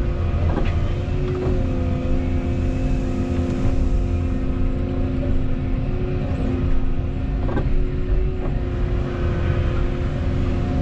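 Volvo 235EL excavator running, a steady low diesel rumble with a droning hydraulic whine over it. A few sharp knocks come through about half a second in, at a second and a half, and twice more in the second half.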